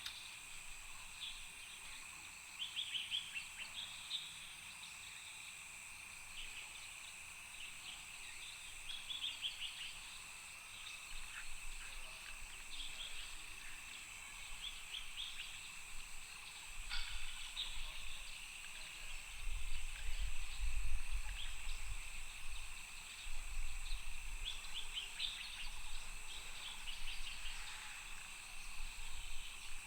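Outdoor nature ambience: a steady high-pitched insect drone under repeated short bird chirps, with a low rumble swelling up in the middle.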